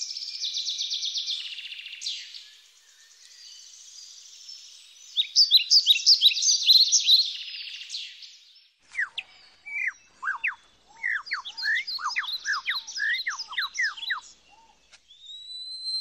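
Bird calls: fast, high chirps and trills, then from about nine seconds a run of short chirps that each slide sharply downward in pitch.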